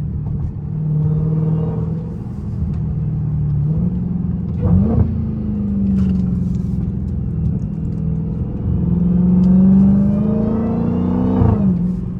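Straight-piped Dodge Challenger SRT Hellcat Redeye's supercharged V8 under way. The revs rise briefly about four seconds in and fall back, then climb steadily for a few seconds with a high whine rising alongside, before dropping off near the end. Short sharp pops come as the revs fall.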